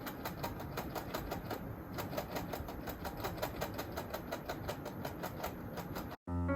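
A handful of coins (one-, five-, ten- and hundred-yen pieces) jingling inside a leg-jiggling device, shaken in a quick, steady rhythm of about five jingles a second. The jingling cuts off suddenly near the end, and piano music begins.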